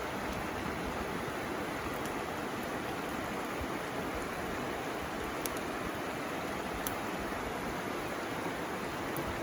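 River flowing with a steady rushing sound, with a few faint sharp pops from a bamboo campfire.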